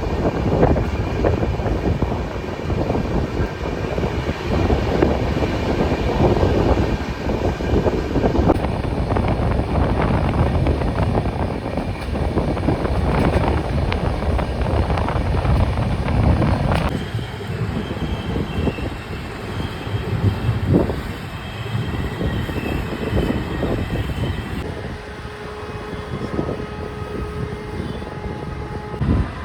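Express train running on the track: the steady rumble and rattle of the moving coaches, with some wind on the microphone. The sound changes abruptly a few times. After about halfway it is quieter, with faint steady high tones over the rumble.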